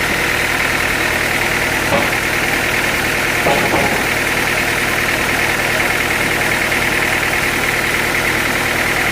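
Sawmill machinery running steadily with a high, even whine. There is a short knock about two seconds in and a brief clatter a second and a half later.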